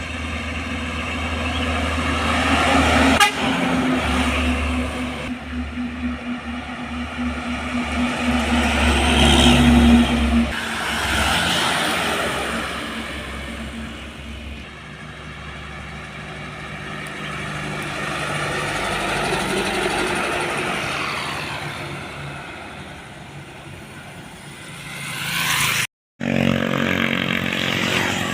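Heavy trucks passing on a road one after another, each one's diesel engine and tyres swelling and fading as it goes by. There is a brief dropout of all sound about 26 seconds in.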